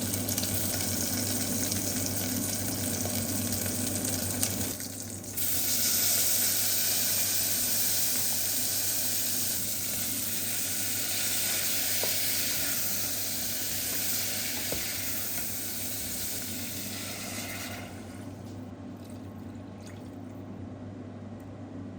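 Home kitchen cooking noise: a steady hiss over a low hum. About five seconds in it changes abruptly and grows brighter, then fades back to the hum about eighteen seconds in.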